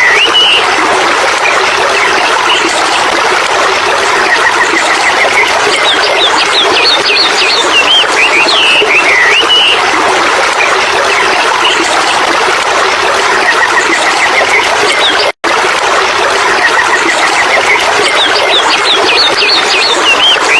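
Songbird chirps and short trills recurring every few seconds over a loud, steady rush of running water. The sound cuts out completely for a split second about 15 seconds in.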